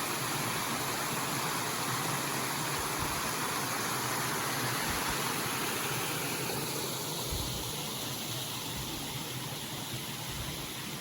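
Waterfall: a steady rush of falling water, easing slightly in tone about six seconds in.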